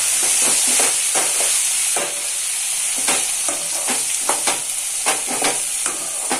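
Green chillies frying in hot sesame oil in a metal kadai, a steady sizzle, while a steel ladle stirs them with repeated scraping strokes against the pan that grow more frequent in the second half.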